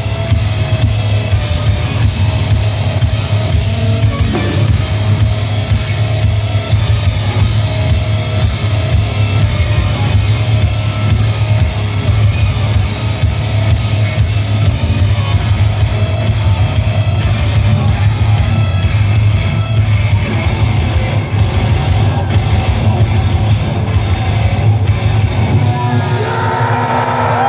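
Heavy metal band playing live, with drums, guitars and some vocals, loud and bass-heavy as caught by an audience recording. Near the end the song ends and the crowd starts cheering and whooping.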